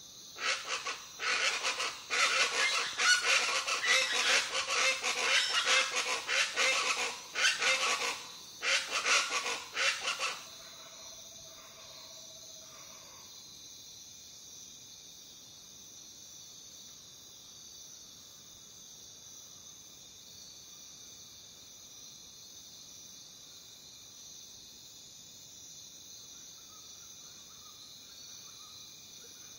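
A chorus of raucous jungle birds calling loudly over one another, which stops abruptly about ten seconds in. A steady high-pitched drone of crickets runs underneath and is left alone for the rest of the time.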